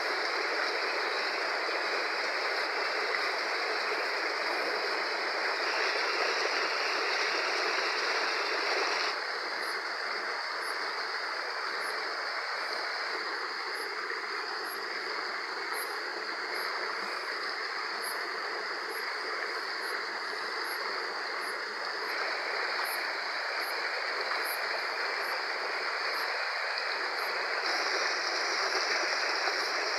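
Fast-flowing river rushing water in a steady, even noise, its tone shifting abruptly a few times. Faint high ticks, about one a second, run through the middle part.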